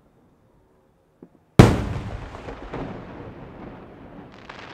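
An aerial firework shell bursts with one sharp, loud bang about a second and a half in, followed by a long rumbling echo. Near the end its glittering stars crackle densely.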